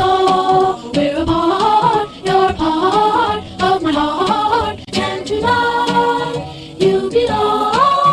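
Music: a voice singing a melody of held notes that slide from one pitch to the next.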